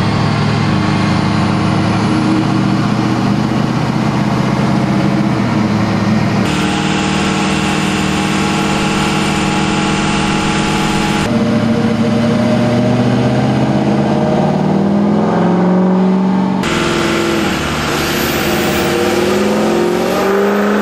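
Pickup truck engine running under load on a chassis dynamometer, its revs climbing in long steady rises, with abrupt drops in pitch in between.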